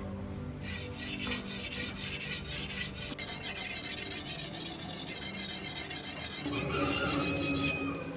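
Rapid, rhythmic rasping strokes of an abrasive worked back and forth against steel, about three or four strokes a second. They start under a second in and stop near the end.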